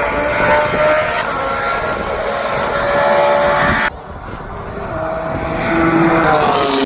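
Race car engine running hard on the track. The sound drops off suddenly about four seconds in, then builds again as a car goes by, its pitch falling near the end.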